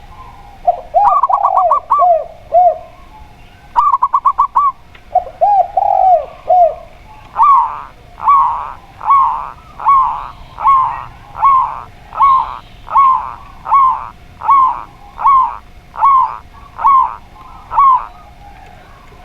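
Zebra dove and spotted dove cooing. Two quick phrases of rapid notes drop into lower coos. Then comes an even run of about fourteen coos, a little under a second apart.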